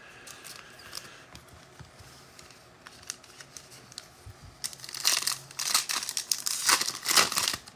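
A trading-card pack's wrapper being torn open and crinkled: faint light handling clicks at first, then about two-thirds of the way in a burst of loud crackling and tearing.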